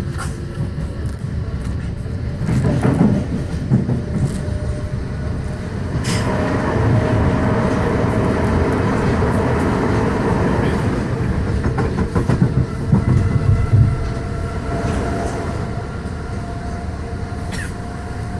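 Passenger train running along the line, a steady low rumble with wheel knocks over the rail joints and a louder hiss for several seconds in the middle.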